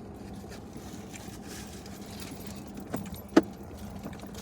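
A steady low hum with two sharp clicks about three seconds in, the second one louder.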